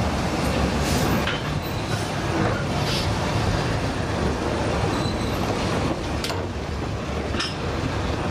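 Narrow-gauge passenger train running slowly out of a station, heard from inside a carriage with no window glass: a steady rumble of wheels on rail, with a few sharp clicks and a couple of brief high wheel squeals.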